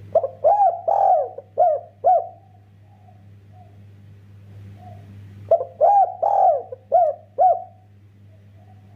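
Spotted dove (derkuku) cooing: two song phrases of about five arched coos each, a few seconds apart, over a steady low hum.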